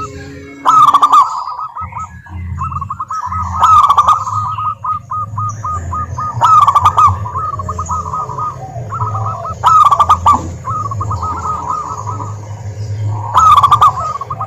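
Zebra doves cooing: rapid trains of short staccato coos, with a louder phrase about every three seconds.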